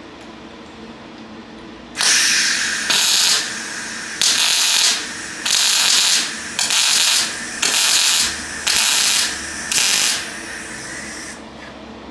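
Arc welder tack-welding steel shock absorber brackets onto a truck chassis: about eight short bursts of crackling hiss, each under a second, with a fainter crackle between them.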